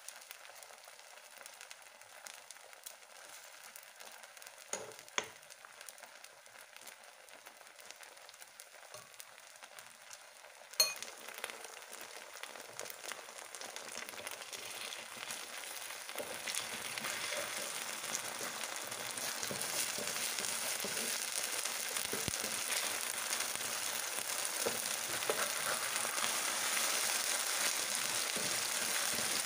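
Seafood pancake of mussels, shrimp and squid in flour batter sizzling as it fries in a nonstick pan, faint at first and then growing steadily louder as the pan heats up. A single sharp click about eleven seconds in.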